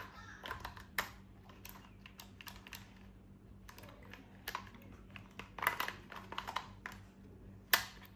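Irregular clicks, taps and short rustles of plastic toys and packaging being handled, over a faint steady low hum.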